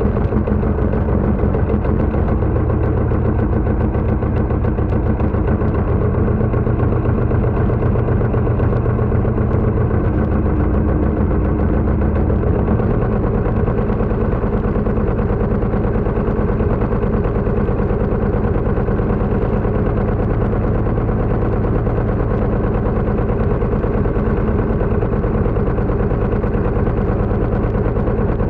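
Pasquali 980 EX tractor's engine running steadily. The low rumble eases a little about halfway through.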